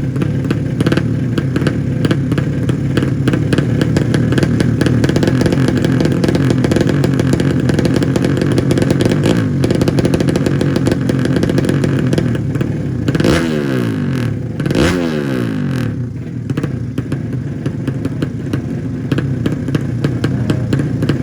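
Drag-bike underbone motorcycle engines, 200cc class, running loud at high revs. There are two quick downward sweeps in pitch a little past the middle.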